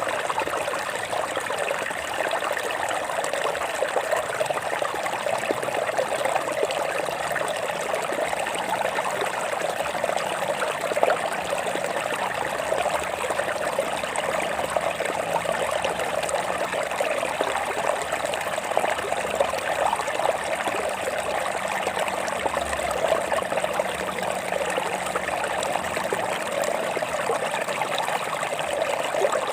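Water flowing and trickling over rocks in a steady, continuous babble.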